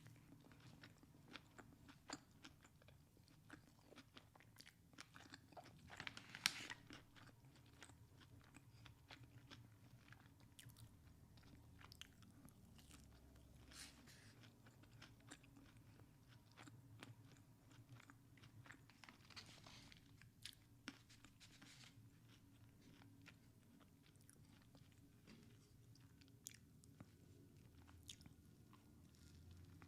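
A person chewing Chick-fil-A food close to the microphone, with frequent small crunches and wet mouth clicks. There is a louder crunching bite about six seconds in.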